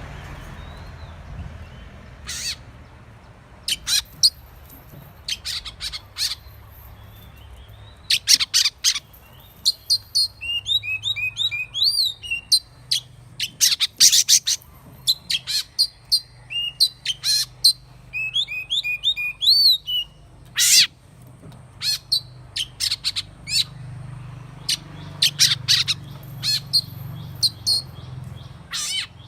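Oriental magpie-robin singing: scattered sharp, high whistled notes, with two quick runs of repeated upswept notes about ten and eighteen seconds in, over a faint low hum.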